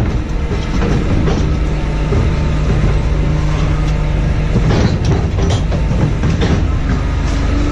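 A machine engine running steadily, with constant rattling and clanking over its low rumble.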